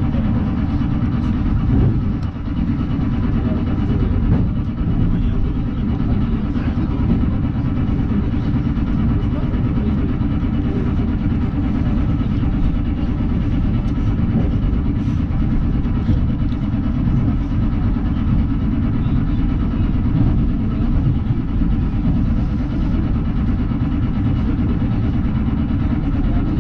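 Electric commuter train under way, heard from inside the carriage: a steady low rumble of wheels and running gear.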